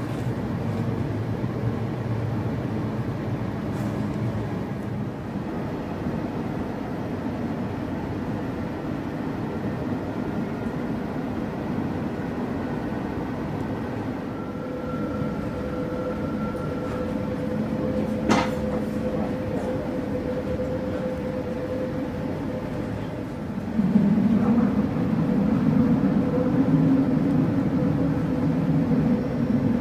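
Train running on its rails: a steady rumble, with a humming tone coming in about halfway, one sharp click soon after, and a louder, deeper rumble near the end.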